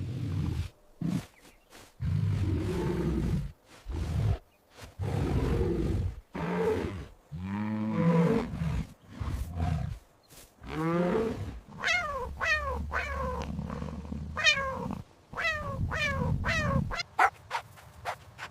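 A big cat roaring and growling in a series of low, rough bursts. After about eleven seconds come a run of short, high calls, each falling sharply in pitch, about two a second.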